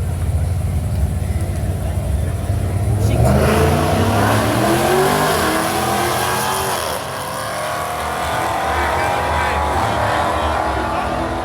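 A race car's engine rumbling at idle, then launching about three seconds in, its pitch climbing in several successive pulls as it accelerates hard down the strip.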